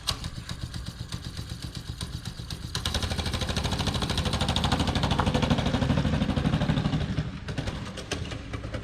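Small single-cylinder four-stroke Predator engine on a mini bike running with an even firing beat, revved up about three seconds in and held for around four seconds, then dropping back to idle.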